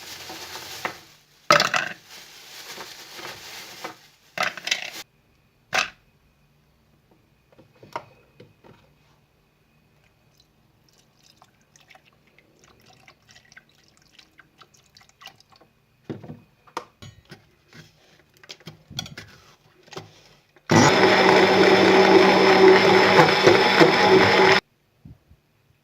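A small electric kitchen appliance motor runs steadily for about four seconds near the end and stops suddenly, with a whirring hum. Before it come short handling noises and light clicks and knocks of kitchen work.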